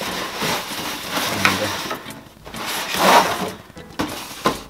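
A cardboard shipping box and its packing being handled and opened: crinkling and scraping, loudest a few seconds in, with a sharp click near the end.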